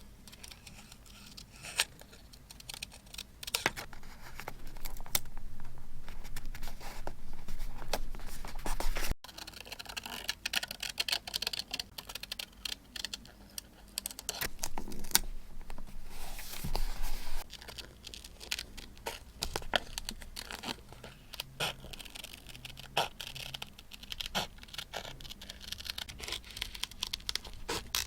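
Close-up paper crafting sounds: paper and stickers rustling, crinkling and tearing, with many small taps and clicks. It is busiest and loudest from about four seconds in to about seventeen seconds in, with a short lull near the middle.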